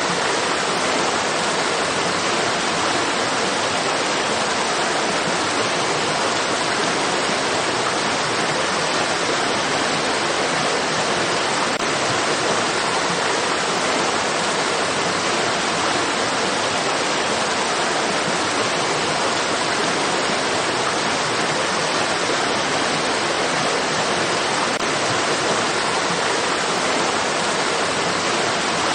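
Flowing water rushing steadily, like a stream or small waterfall, as an even hiss with no change in level.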